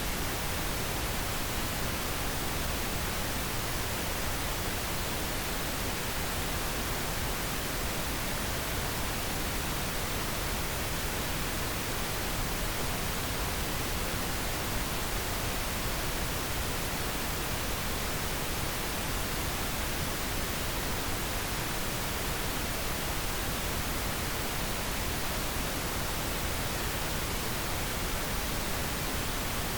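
Steady pink noise: an even hiss spread across the whole range, with no changes or breaks.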